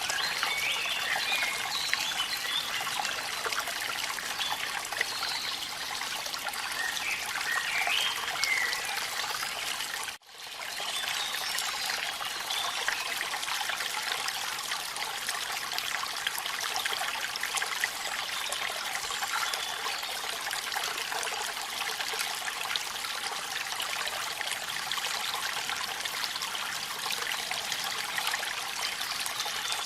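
Waterfall in rain: a steady rush of falling and running water. It cuts out abruptly for a moment about ten seconds in, then comes back at the same level.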